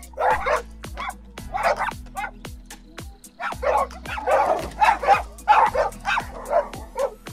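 Dog barks and yips repeated rapidly, two or three a second, over background music with a steady beat.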